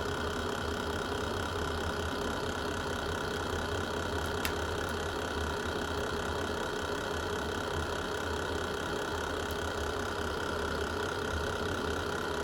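Wood fire burning in a fireplace: a steady low rumble and hiss, with a single sharp crackle about four and a half seconds in and a fainter one near the end.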